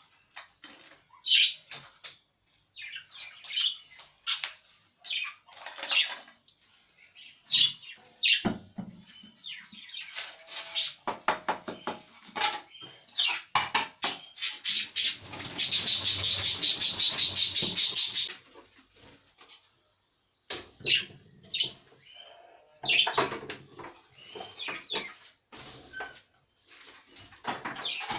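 Pet budgerigars chirping and chattering in quick, high calls. About halfway through comes a loud run of rapid, even pulses lasting about three seconds.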